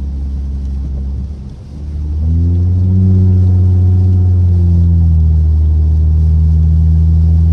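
Straight-piped V6 car exhaust droning while driving: the drone dips briefly about a second and a half in, then comes back louder as the throttle opens and holds a steady, deep drone.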